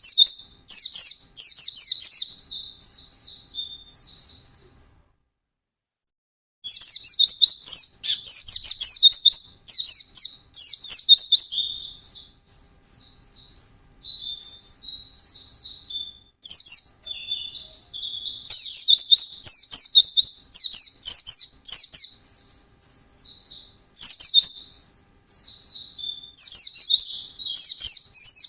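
A white-eye (pleci) singing a fast, high-pitched twittering song in rapid runs of chirps. The song stops about five seconds in and resumes just under two seconds later, then runs on without a break.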